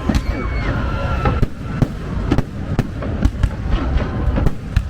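Fireworks show: aerial shells bursting in quick succession, many sharp bangs and crackles, several a second, over a continuous low rumble.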